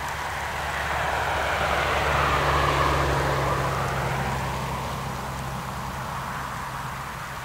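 Ivatt Class 2 steam locomotive 46512 passing with its train, the rushing sound swelling to its loudest about three seconds in and then fading away.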